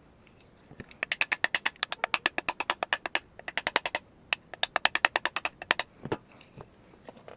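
Rapid runs of sharp clicks, about nine or ten a second, stopping and starting again a few times, then a few scattered clicks near the end, from a part or hand tool being worked on an airsoft rifle.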